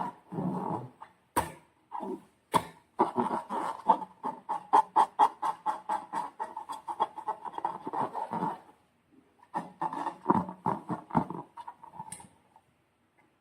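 Slime being squeezed and worked by hand, making quick wet squelching clicks in runs of about four or five a second, with a pause before a last run.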